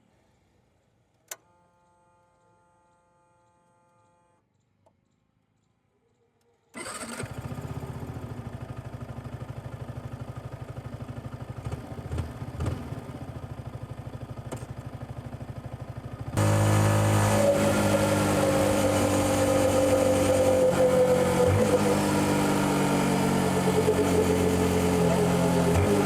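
Yamaha XSR 155's single-cylinder engine, stock exhaust, starting about a quarter of the way in and running with a steady even pulse, after a click and a short steady tone in near silence. A little past halfway the engine sound becomes much louder, with a slowly falling pitch.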